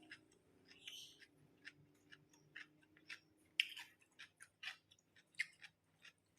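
Faint, irregular mouth clicks of someone chewing a mouthful of fried rice with stink beans, a few small smacks a second, over a low room hum.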